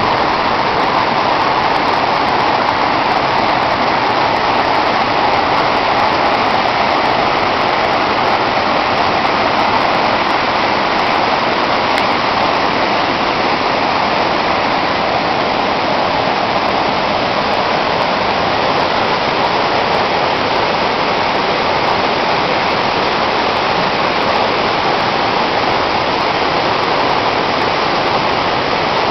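Waterfall and river water rushing: a loud, steady roar of falling and flowing water.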